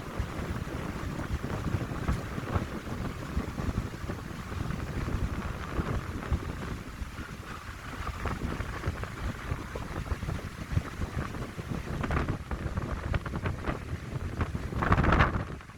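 Wind blowing through a pine grove, with gusts buffeting the microphone in a low rumble. A stronger gust swells near the end.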